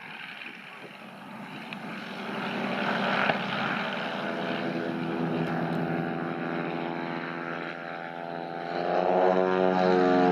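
Propeller aircraft engine growing louder, a steady pitched hum with many overtones that strengthens sharply about nine seconds in.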